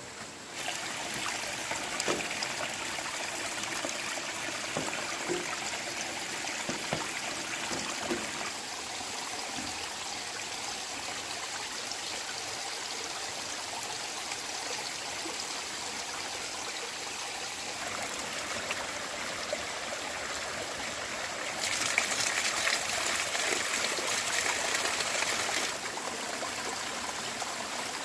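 Running water trickling and splashing in a steady flow. It changes abruptly in loudness a few times and is loudest for about four seconds near the end.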